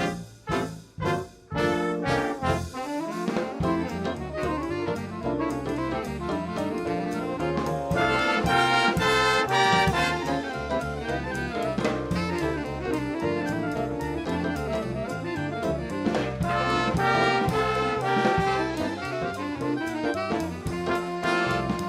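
Jazz band music: brass and saxophones playing over a drum kit, opening with short separated chords in the first two seconds, then sustained ensemble playing with louder passages.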